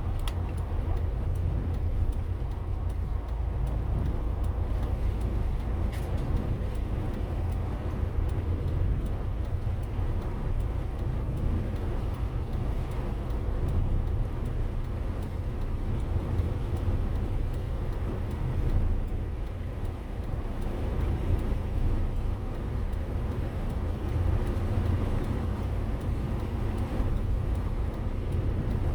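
Motorhome driving along the road: a steady low rumble of engine and tyres that holds even throughout, with no sharp events.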